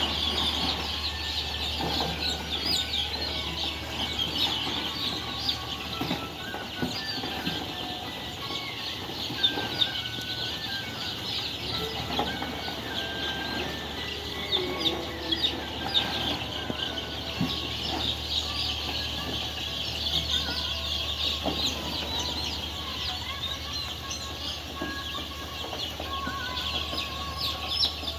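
A large flock of layer chickens calling all at once, a dense chorus of many overlapping high-pitched calls and clucks, over a steady low hum.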